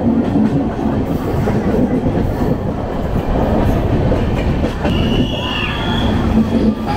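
Passenger train running, with a steady loud rumble and rattle of wheels on the rails heard from aboard. A thin high wheel squeal rises and fades about five seconds in.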